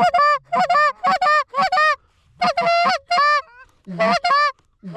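Loud Canada goose honks and clucks, coming in quick runs of three to five notes with short pauses between the runs.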